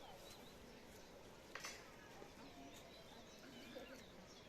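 Near silence: quiet rural ambience with a few faint, distant bird chirps and a single short click about a second and a half in.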